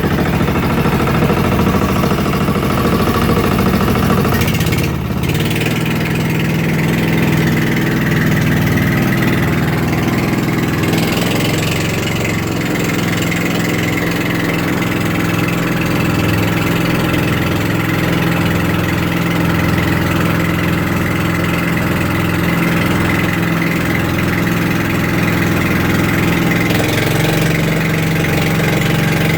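Boat engine running steadily, with a brief dip about five seconds in and a slight change in its tone near the end.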